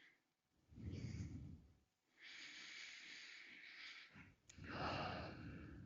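A person breathing slowly and deeply, three long soft breaths in and out, the deliberate breathing paced with tai chi movements. A single small click about four and a half seconds in.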